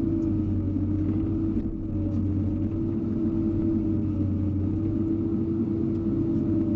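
Hydraulic excavator's diesel engine running steadily under work, a constant low rumble with a steady hum.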